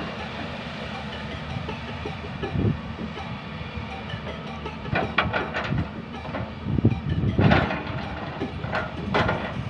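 A steady mechanical rumble with several sharp clanks and knocks, the loudest about three quarters of the way through.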